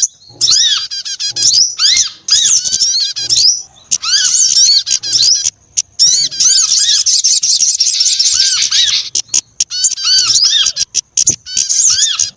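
Loud, busy chorus of small songbirds from a bird-lure recording. Many short arched chirps and squeaky calls overlap and repeat rapidly, with a few brief breaks, a denser stretch in the middle, and a rising-and-falling call recurring over and over.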